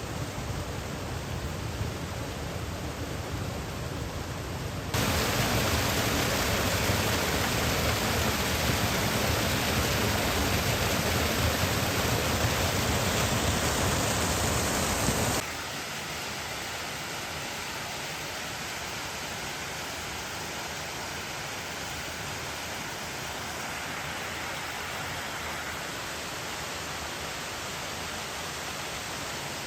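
Steady rushing water of a mountain stream or waterfall, an even hiss with no clicks or tones; it jumps louder about five seconds in and drops back abruptly about fifteen seconds in.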